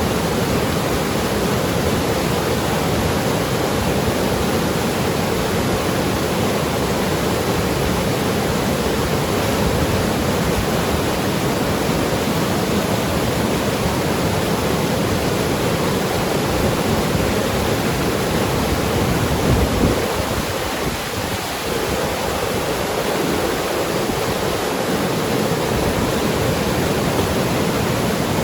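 Mountain river rushing and gurgling over rocks: a steady, even roar of flowing water.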